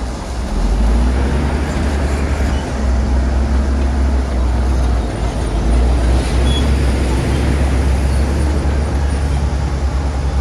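Bulldozer's diesel engine running steadily: a loud, constant deep rumble with noisy machine sound above it.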